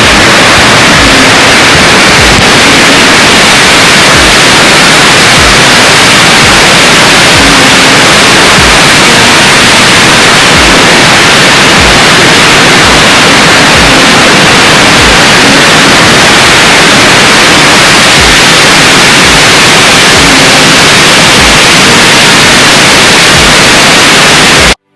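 Very loud, steady rush of Cohoes Falls' water pouring down close by. It cuts off suddenly just before the end.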